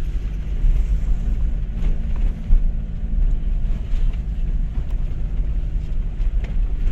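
A vehicle's engine running with a steady low rumble, wind buffeting the microphone, and a few light knocks.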